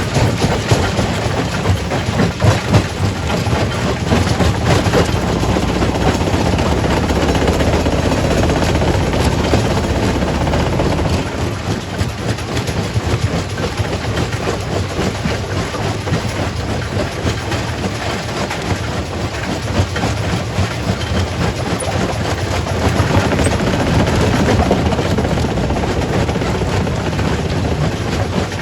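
Quarry primary rock crusher running under load, a continuous heavy rumble with dense clattering knocks of stone being broken and tumbling through the machine.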